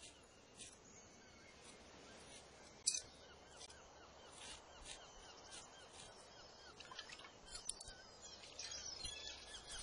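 Birds chirping and calling in quick short notes, with scattered clicks and one sharp knock about three seconds in.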